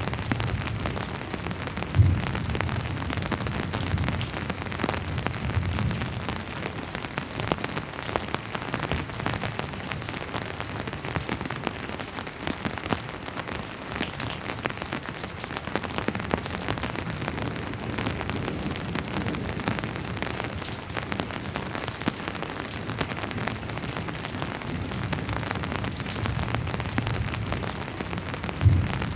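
Steady rainfall with many individual drops pattering on surfaces, and low rumbles of distant thunder near the start and near the end. Two sharp low thumps stand out, one about two seconds in and one near the end.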